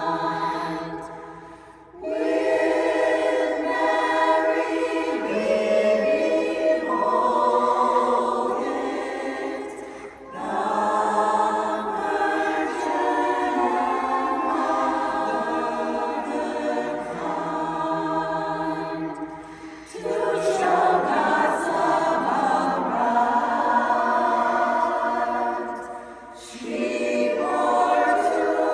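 A cappella barbershop chorus singing a Christmas piece in long held chords, the phrases breaking off briefly about 2, 10, 20 and 26 seconds in.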